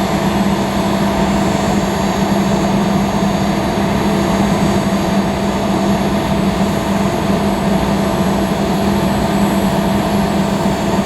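A Boeing 757-200's two Rolls-Royce RB211-535E4B turbofan engines running steadily and loudly, a dense roar with a constant low hum and a steady whine in it.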